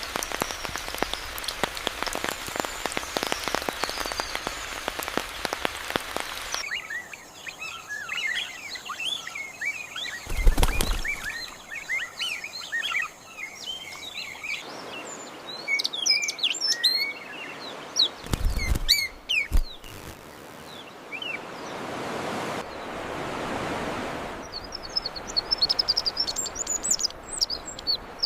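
Nature ambience of small birds chirping and singing, in several different spells of calls. It opens with a few seconds of dense pattering like rain, and two short low thuds break in partway through.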